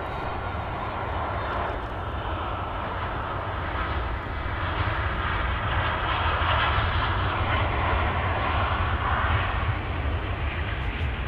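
Jet airliner engines passing: a steady rush of engine noise over a deep rumble, growing louder toward the middle and easing slightly near the end.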